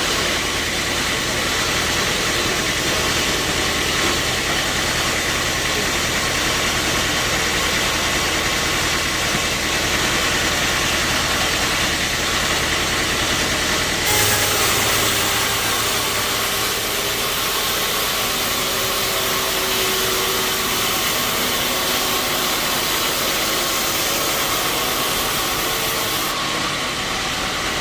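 Sawmill machinery running steadily with a constant engine hum. About halfway through, a brighter hissing noise joins in and carries on until shortly before the end.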